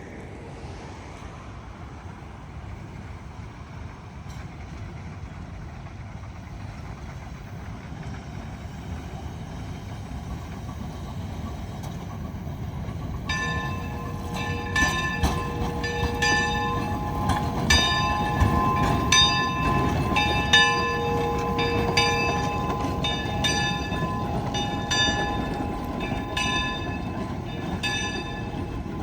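Shay #5 geared steam locomotive approaching, its running rumble growing steadily louder. From about halfway, a bell rings over it with repeated strikes, roughly one a second, each ringing on.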